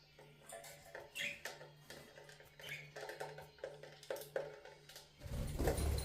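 Pet budgerigars chirping and chattering, with scattered taps and clicks. A loud rustling burst near the end, over a steady low hum.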